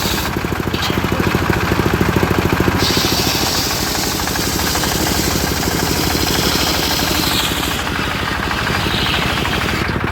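Engine of a homemade circular sawmill running steadily with a fast, even pulse as the saw blade cuts black teak, adding a high hiss that strengthens about three seconds in and eases near the end.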